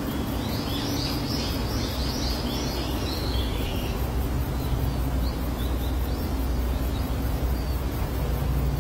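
Birds chirping over a steady low hum and outdoor noise. The chirps come in a cluster over the first few seconds, then a few scattered ones later.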